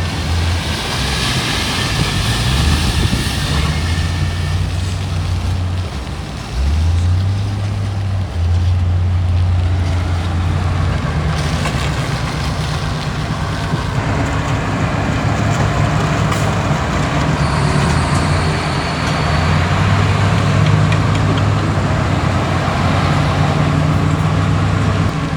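Heavy diesel earthmoving machinery running under working load, its low engine note shifting up and down in pitch; it dips briefly about six seconds in, then picks up again.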